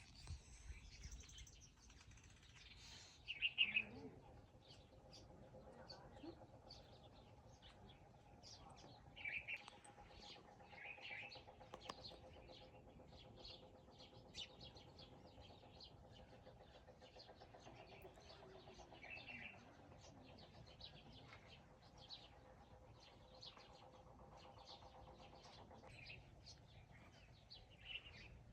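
Birds chirping now and then, short separate calls every few seconds over a quiet rural background.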